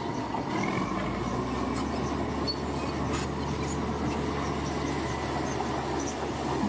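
Bulldozer's diesel engine running steadily under load, with a few faint metallic clicks and knocks.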